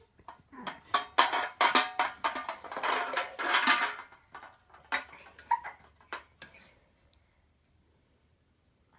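Toy blocks clattering and knocking together as a child handles them and loads them into a toy truck: a busy run of clacks for about three seconds, then a few scattered knocks before it goes quiet.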